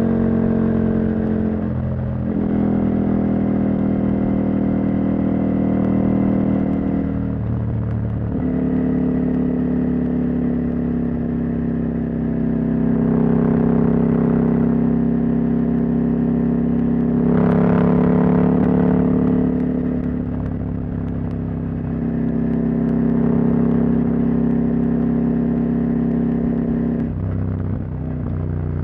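Husqvarna Norden 901's parallel-twin engine, running with its catalytic converter removed, pulling the bike along the road. The engine note dips briefly several times and swells up under throttle about two-thirds of the way through.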